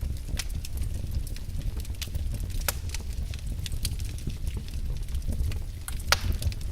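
Wood fire burning in a fireplace, with a steady low rumble of the flames and irregular crackles and pops; the sharpest pop comes about six seconds in.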